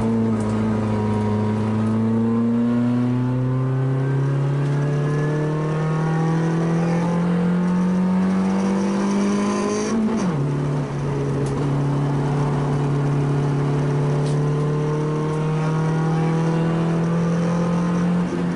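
Small 1-litre rally car's engine heard from inside the cabin, pulling under load with its pitch climbing slowly. About ten seconds in, the pitch drops sharply at an upshift, and then it climbs again. Right at the end the revs fall away.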